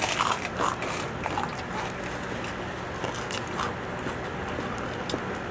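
Crunching and chewing of crispy pork chicharon (deep-fried pork rinds). Crackly bites come thickest in the first couple of seconds and thin out after.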